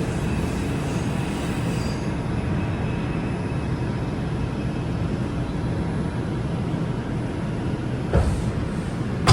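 R142 subway train running between stations: a steady rumble of wheels on the track, with a faint high whine in the first couple of seconds. A knock comes about eight seconds in.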